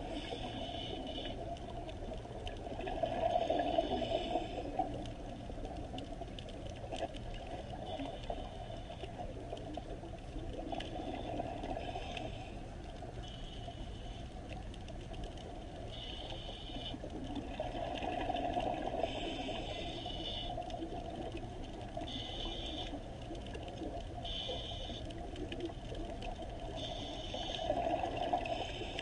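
Running water, swelling and ebbing every ten seconds or so, with short high chirping calls repeating every few seconds over it.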